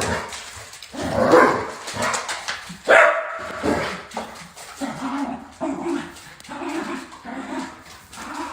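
A dog barking: a few loud barks in the first three seconds, then a quick run of shorter, lower barks about twice a second.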